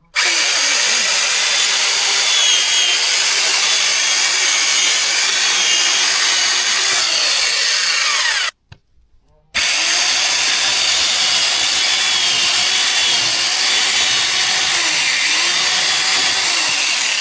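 Power saw cutting through old wooden boards, running in two long cuts with a break of about a second between them. Its pitch wavers slightly as the blade meets the wood.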